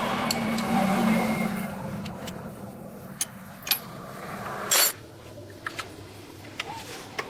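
A motor vehicle engine running for about the first two seconds, then dying away. Scattered sharp clicks follow, with a short loud burst of hiss a little under five seconds in.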